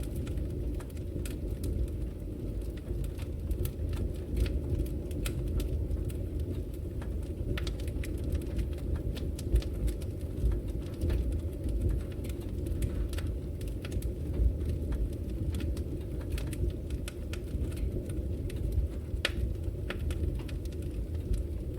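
Wood logs burning in a fireplace: irregular crackles and snaps over a steady low rumble of the fire.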